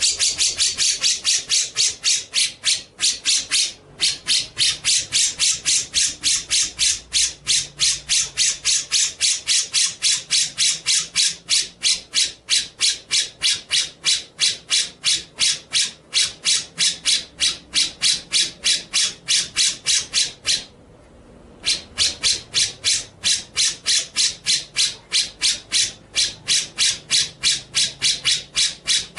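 A songbird giving a harsh, scratchy call over and over at about three calls a second. It breaks off briefly about four seconds in and pauses for about a second near twenty seconds in.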